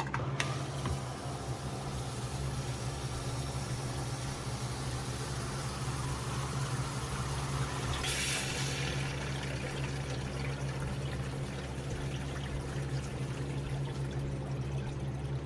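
Sump pump running under test through a newly installed check valve: a steady electric motor hum with water rushing up the PVC discharge pipe. A brief, louder hiss of water comes about eight seconds in.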